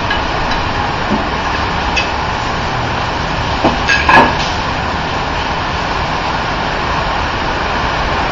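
Heavy rain pouring down in a steady loud hiss, with a few short sharp knocks about four seconds in.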